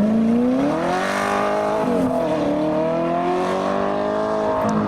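V8 car engine accelerating hard as the car pulls away. Its pitch climbs, drops briefly about two seconds in as at a gear change, then climbs again and holds.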